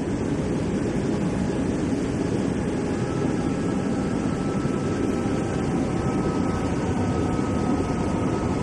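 Steady rumble of an MRT Line 3 light-rail train running along the elevated track, heard from inside the passenger car as it approaches a station. A faint steady whine joins about three seconds in.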